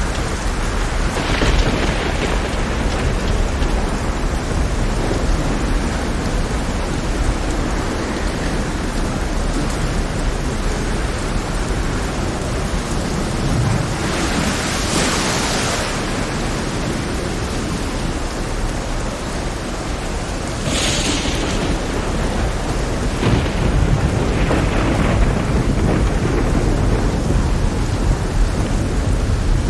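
Heavy rain over a rough sea, with a steady low thunder rumble underneath. Several louder hissing surges rise and fall, the biggest about halfway through.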